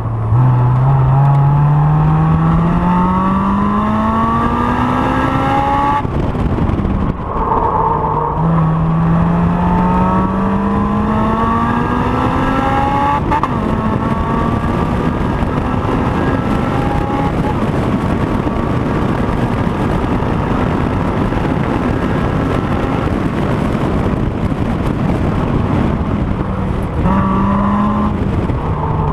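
Honda S2000's four-cylinder VTEC engine at full throttle on track, revs climbing through the gears with an upshift about six seconds in and another about thirteen seconds in. It then runs at high revs for a long stretch and eases off near the end.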